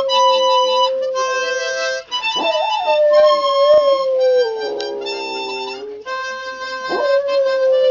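A harmonica playing held chords while a Fila Brasileiro–Boxer mix dog howls along. The dog's long, wavering howls slide down in pitch, with a fresh howl starting about two seconds in and another near the end.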